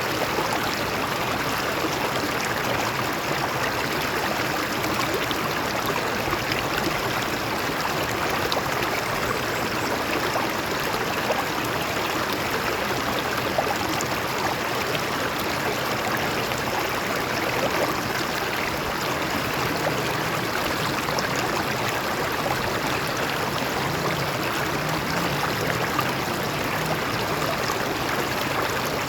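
Stream water flowing over rocks, a steady, even rushing and babbling.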